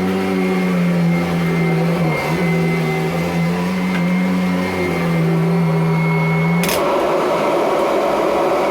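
Kirby Avalir upright vacuum cleaner running steadily on carpet, its motor hum dipping briefly in pitch about two seconds in. Near the end a sharp click cuts the steady hum and leaves a rushing sound as the vacuum is switched off and starts to wind down.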